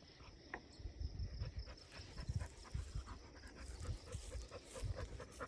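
Faint, steady insect chirring, most likely field crickets, with irregular low rumbles and a few small clicks over it.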